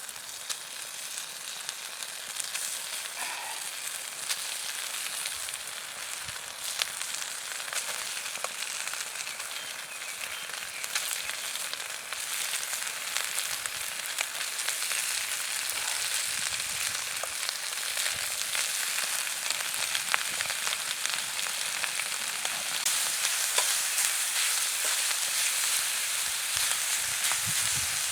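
Food sizzling and frying on a hot iron griddle: a steady hiss dotted with small spattering pops, growing a little louder toward the end.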